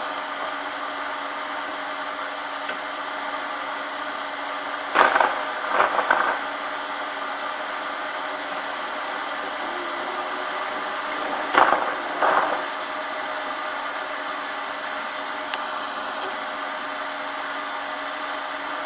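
Steady noise of a downpour with a faint constant hum, broken by two pairs of short, loud crackling bursts about 5 and 12 seconds in.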